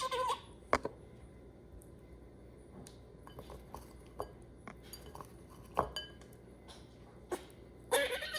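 Pet squirrel in heat vocalising with short squeaky chattering calls at the start and again near the end, with scattered small clicks and ticks in between as she eats sunflower sprouts.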